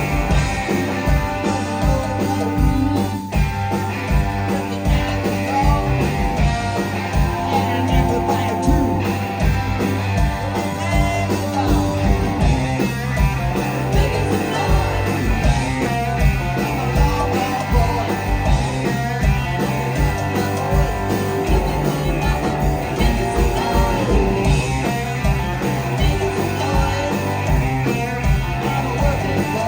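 Rock band playing live: guitars over bass and a steady drum beat.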